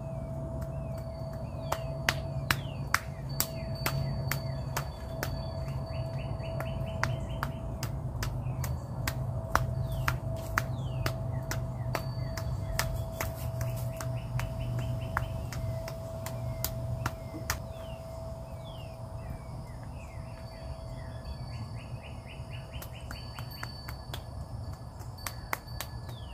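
Birds chirping outdoors, with a trilled call repeated several times, over a steady low hum and a held tone. Scattered sharp clicks come through irregularly.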